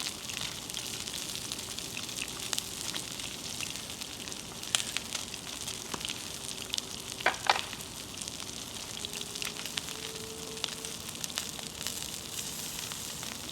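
Food sizzling as it fries, a steady crackling hiss with a few sharper pops, the loudest about seven and a half seconds in.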